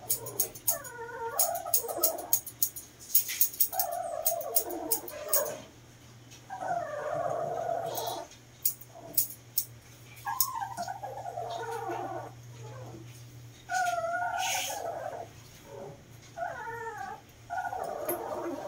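A dog whining and yowling while its face is trimmed, about eight drawn-out cries that bend up and down in pitch. Quick scissor snips click around the cries, most thickly in the first few seconds.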